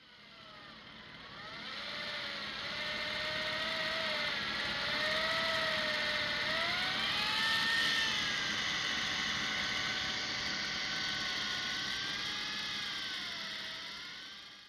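Electric fishing reel motor whining as it winds in line, its pitch sagging and recovering every few seconds as the load on the line changes.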